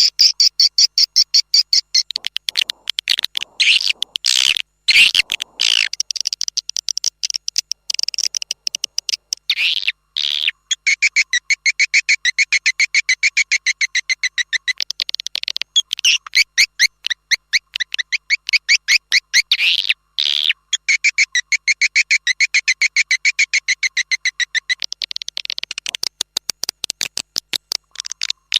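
Swiftlet twittering: long runs of rapid, evenly repeated high chirps, broken now and then by brief pauses. A recorded swiftlet calling sound of the kind played to lure swiftlets into a nesting house.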